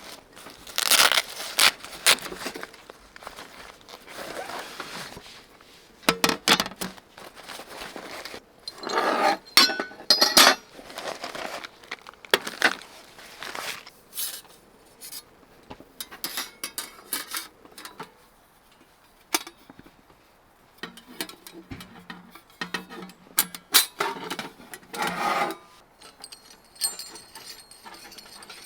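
Irregular handling noises: rustling and crinkling with sharp clicks and light clinks, coming in bursts with short pauses between.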